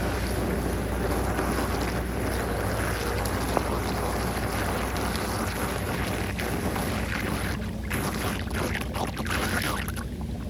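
Floodwater rushing steadily as it drains through a whirlpool into a street drain. It becomes choppier and more uneven near the end, with wind rumbling on the microphone.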